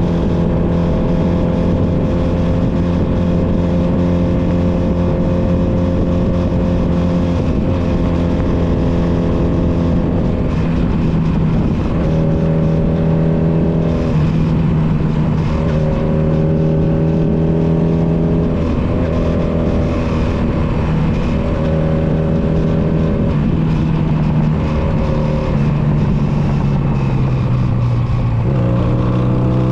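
Honda Nighthawk 250's air-cooled parallel-twin engine running steadily under way, heard from on the bike with wind rush. The engine note eases off and comes back several times. Near the end the pitch drops, then starts to rise again as the rider gets back on the throttle.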